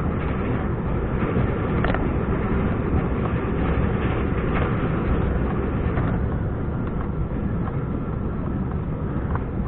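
Scania R420 truck's six-cylinder diesel engine running steadily under way, with road and drivetrain noise and a few light knocks.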